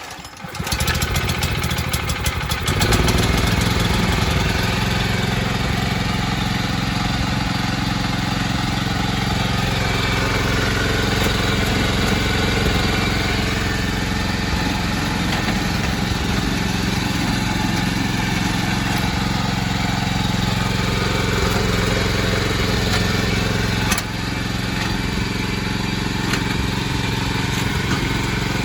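Mitsubishi GM181L single-cylinder OHV gasoline engine on a walk-behind tiller starting up, then running steadily. It gets louder about three seconds in and drops slightly a few seconds before the end.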